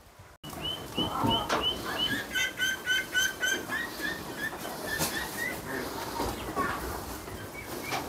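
A bird calling a rapid series of short, evenly spaced high notes, about three a second, which slows and fades after about four seconds, over outdoor background noise.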